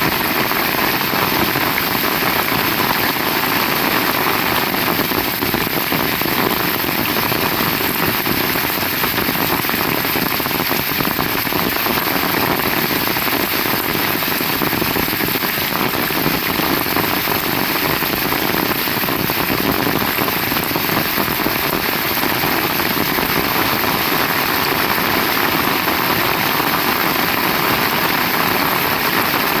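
Heavy rain falling, a steady, dense downpour with no breaks.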